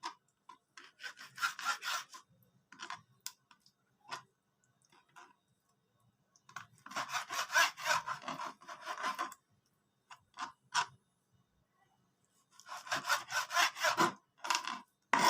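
A knife sawing back and forth through a block of frozen liver to cut thin strips, in three runs of quick rasping strokes with short pauses between them.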